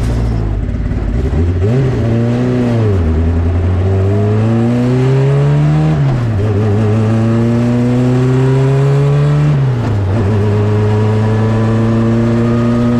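Turbocharged Honda CRX engine pulling under way through the gears: a brief rev up and down, then two long climbs in pitch, each dropping sharply at a gear change about six and ten seconds in, before it climbs slowly again.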